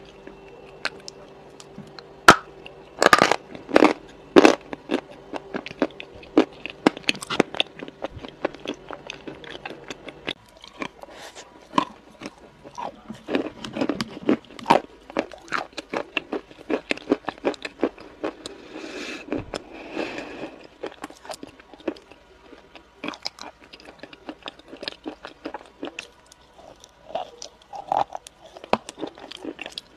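Close-miked biting and chewing of crunchy food, with irregular crisp crunches, the loudest of them a few seconds in. A faint low steady hum underneath stops about ten seconds in.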